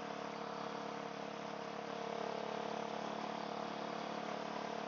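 Motorcycle engine with an aftermarket sport exhaust running steadily, heard muffled through a microphone inside the rider's helmet; it gets slightly louder about two seconds in.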